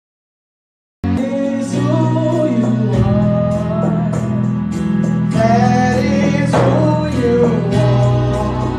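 Gospel worship music with singing and guitar, cutting in abruptly about a second in after dead silence.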